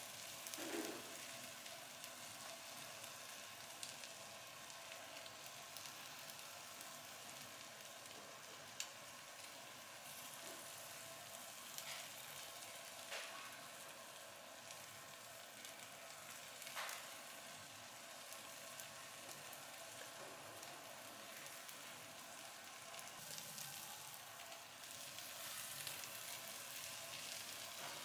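Food sizzling steadily, with a few sharp clicks scattered through.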